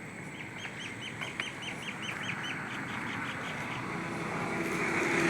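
A bird calling: a rapid run of about a dozen short, high, repeated notes, about five a second, fading after about three seconds. A rushing background noise grows steadily louder toward the end.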